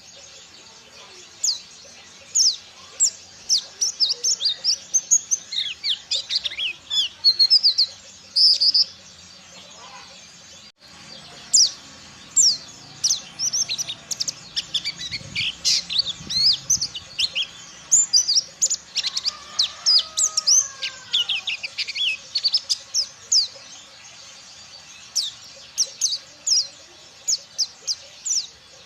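Mountain white-eye (pleci dakun) singing a rapid stream of thin, high chirps and twitters in long bursts. The song is busiest in the middle, with a brief break about ten seconds in.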